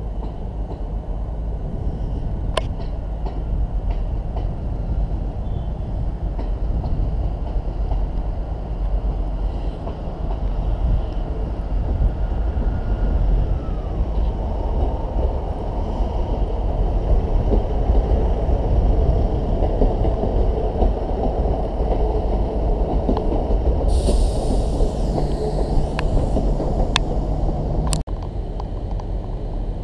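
A passenger train running through the station, its rumble building steadily through the middle, with a high hiss over it for a few seconds near the end. The sound then cuts abruptly to quieter station ambience.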